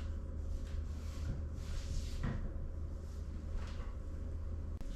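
Faint clunks and handling noises of work being done, with a soft knock about two seconds in, over a steady low hum.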